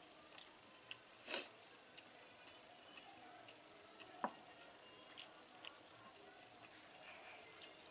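Faint chewing and mouth sounds of a person eating rice and vegetables by hand, with scattered small clicks. There is one brief louder noise a little over a second in and a sharp click a little after four seconds.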